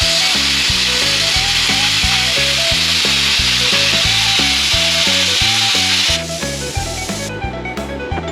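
Plasma cutter hissing steadily as it cuts through the steel hull, stopping about six seconds in. Background music with a stepped bass line and melody plays throughout.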